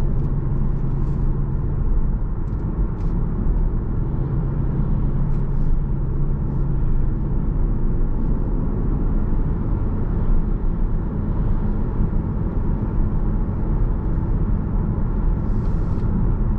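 Steady road and engine noise of a car being driven, with a low steady hum through the first several seconds that then fades.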